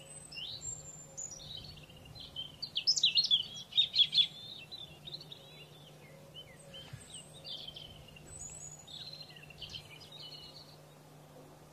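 Canaries singing: quick chirps and rolling trills, loudest about three to four seconds in, over a steady low hum.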